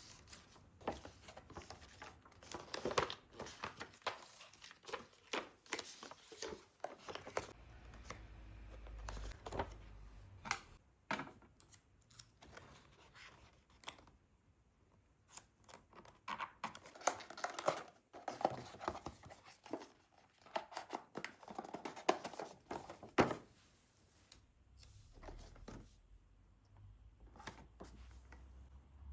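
Packaging being handled and opened: irregular crinkling and rustling of plastic, with short tearing and snipping sounds, in a small room.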